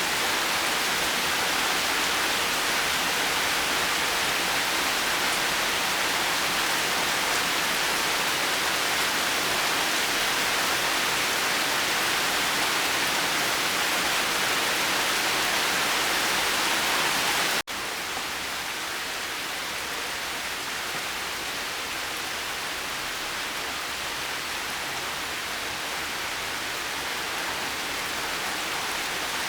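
Steady, dense rain noise with no separate drops or thunder. About 18 seconds in it cuts out for an instant and comes back a little quieter, then slowly builds again.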